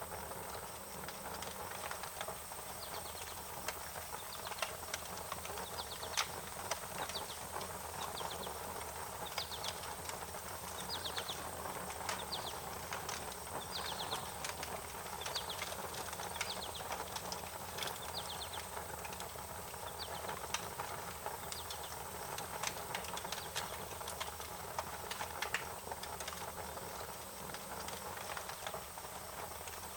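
Wood fire crackling, with scattered sharp pops and snaps over a steady hiss. Short high chirps, typical of small birds, come and go through the first half.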